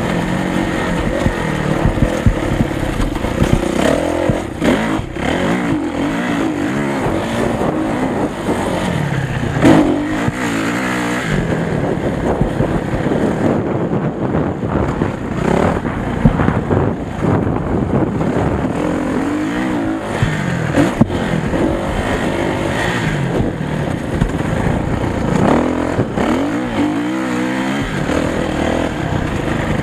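Motocross motorcycles running on a track, engines revving up and dropping back again and again as the bikes accelerate and shut off.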